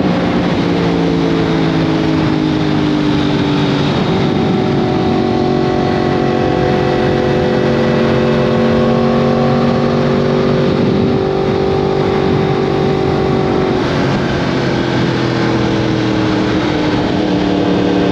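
2015 Yamaha R1M's crossplane-crank inline-four running through an Akrapovic exhaust. Its note eases down over the first few seconds, holds steady for about ten seconds, then eases down again near the end.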